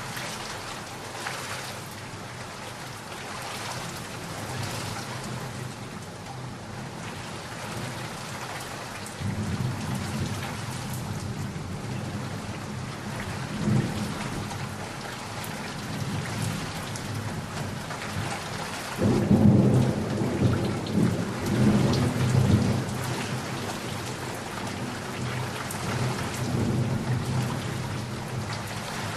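Steady heavy rain with thunder. A low rumble of thunder starts about nine seconds in, and a louder, rolling peal follows about ten seconds later, then slowly dies away.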